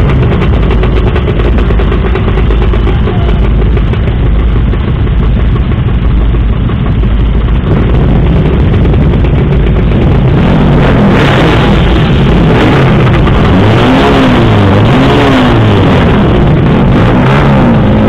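A crowd of motorcycle engines idling at close range, a steady low rumble. In the second half several engines are revved up and down again and again.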